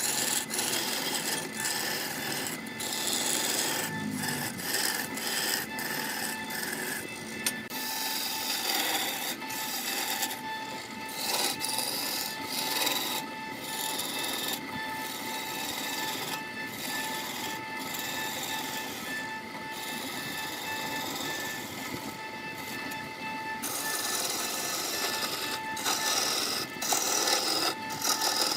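Wood lathe spinning a turned baluster while a turning chisel cuts and scrapes the wood, a rasping, scraping noise that comes and goes with each pass of the tool, over a steady tone from the lathe.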